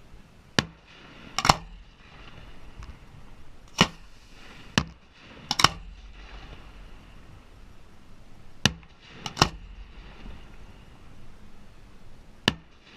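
Display fireworks going off: sharp bangs every second or two, several coming in quick pairs, about nine in all.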